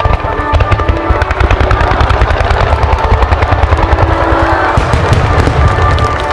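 Fireworks bursting in rapid, dense volleys of crackles over deep thuds, while music plays over loudspeakers.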